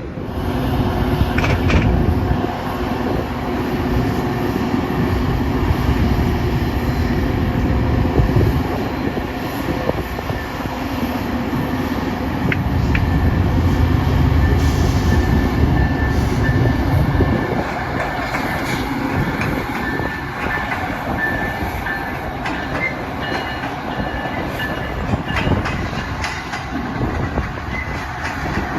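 Amtrak passenger train passing close by, with a heavy rumble from the moving train that starts abruptly and scattered clicks from the wheels over the track.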